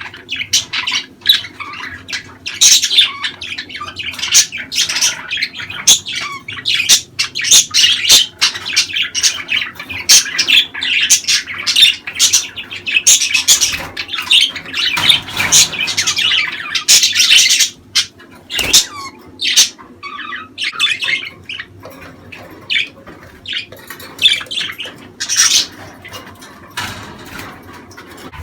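Budgerigars chattering: a dense, irregular run of quick chirps, warbles and squawks, thinning out in the last third.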